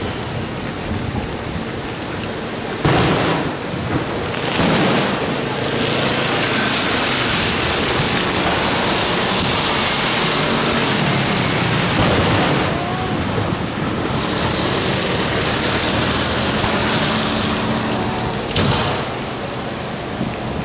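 Fireworks bursting overhead: heavy, rumbling booms about 3 and 5 seconds in and again near the end. Between them a dense, steady rushing noise runs on.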